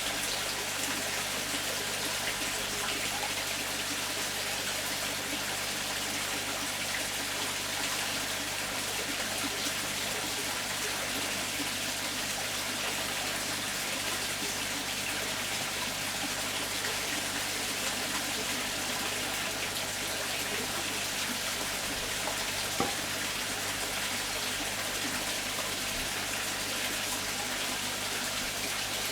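Steady splashing and trickling of running water at a garden pond, with one brief click about three-quarters of the way through.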